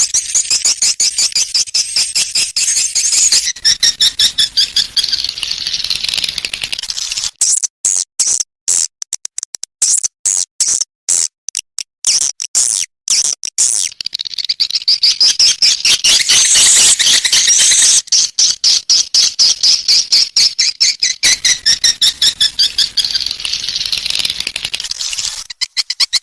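Swiftlet calls from a swiftlet-house lure sound: fast, buzzy chirping trills high in pitch, repeated in rapid pulses. In the middle the trills break up into sharper, separate chirps with short gaps between them, then the dense trilling returns.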